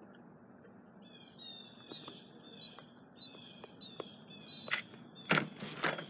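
A bird chirping a run of short, downward-gliding notes, about two a second, followed near the end by a few loud clicks and knocks.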